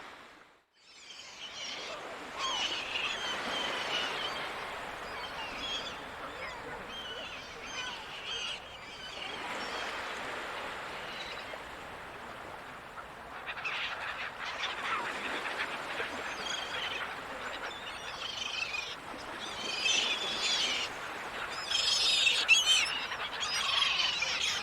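Seagulls calling over the sound of ocean surf, with many short cries overlapping. The cries are loudest and thickest near the end.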